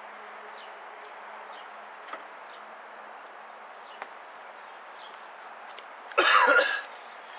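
Quiet outdoor background with faint, short, high falling chirps repeating about once a second, a couple of faint ticks, and one short loud rasping burst about six seconds in.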